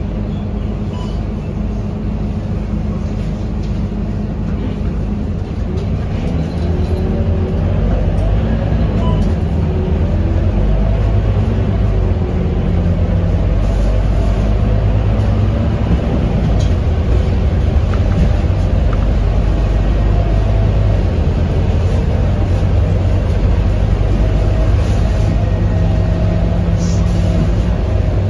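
Scania K230UB bus's five-cylinder diesel engine running under way, getting louder about a third of the way in and then holding steady.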